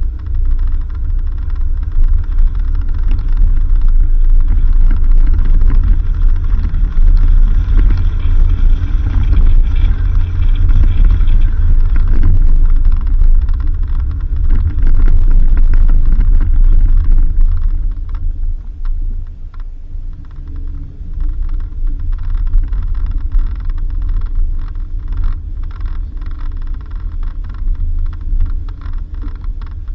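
Vehicle driving on a rough dirt road: a steady low rumble, loudest in the first half and easing after about eighteen seconds, with scattered small knocks and rattles.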